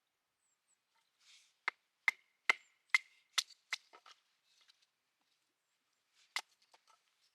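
Firewood being chopped: about six sharp strikes in quick succession, followed by a few lighter taps and one more strike near the end.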